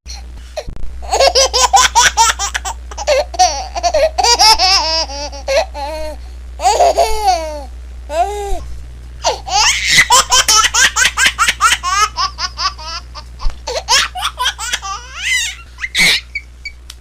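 A baby laughing in several bouts of rapid, high-pitched giggles, separated by short pauses.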